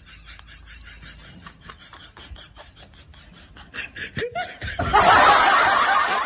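Quiet, rhythmic snickering laughter for the first few seconds, then, about five seconds in, a much louder burst of laughter.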